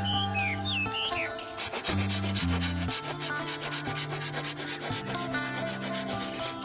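A fast rasping, rubbing sound, like wood being sanded or scraped, starting about a second and a half in. Background music with held chords plays throughout, and birds chirp near the start.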